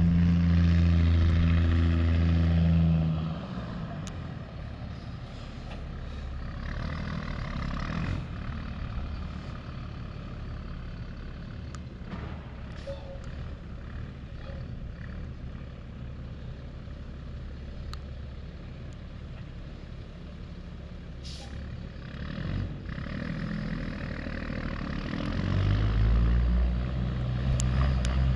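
Tandem dump truck's diesel engine running close by for the first three seconds, then dropping to a distant rumble. It grows loud again near the end as the truck comes back.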